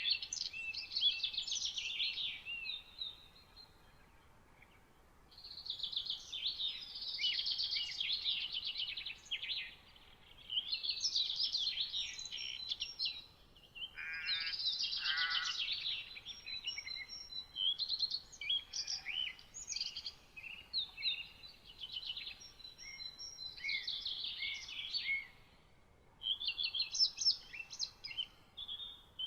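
Songbirds singing in rapid, high warbling phrases a few seconds long, separated by short pauses, over a faint steady background hiss. About halfway through, a lower, rasping call sounds under the song for about two seconds.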